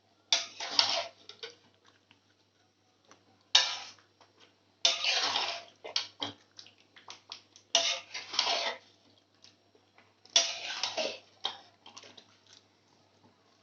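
A metal spatula stirring and scraping chicken in a thick, wet masala in a pan as it is fried down, in about five strokes a few seconds apart, with small metallic clinks between.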